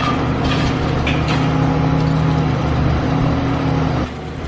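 Diesel engine of a Caterpillar high-reach demolition excavator running steadily under working load, with a few faint knocks of debris. The engine note drops near the end.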